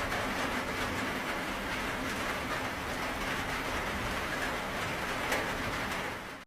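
Steady rainfall, an even dense hiss of drops with faint scattered ticks, cutting out sharply at the very end.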